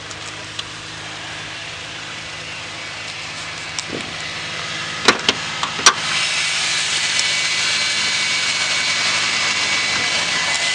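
Subaru EZ30 3.0-litre flat-six boxer engine idling steadily. A few sharp clicks about five seconds in come from the bonnet latch and bonnet being opened, and after them the engine sound is louder and brighter.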